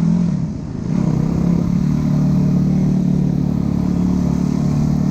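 Dirt bike engine running at a steady pitch, with a short dip in level about half a second in before it carries on.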